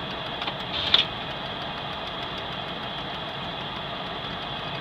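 A vehicle's engine idling steadily, heard from inside the cab, with a faint click about a second in.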